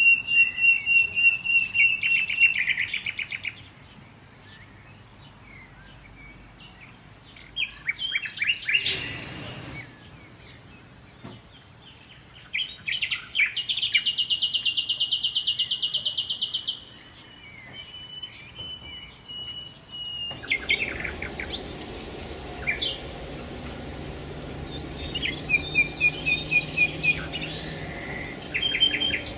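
Several songbirds singing and calling in rapid trills and short chirps. A loud, buzzy high trill about halfway through is the loudest part. A steady low background hiss comes in about two-thirds of the way through.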